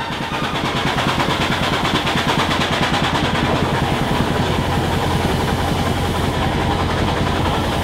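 c.1880 Corliss stationary steam engine running steadily: a continuous mechanical clatter with a fast, even pulse over a low hum.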